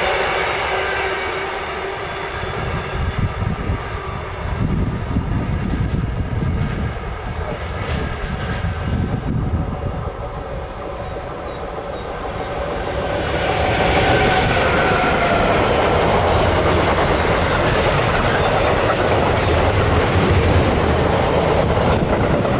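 Electric train passing on the line. Its traction motors whine in several steady tones that fade over the first few seconds, and its wheels clatter over the rails. About 13 seconds in, a louder rushing noise builds and holds as a train passes at speed.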